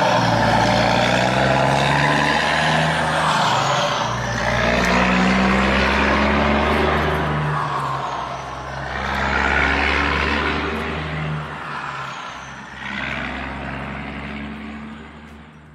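Truck engine running steadily, its noise swelling and easing every few seconds, fading out near the end.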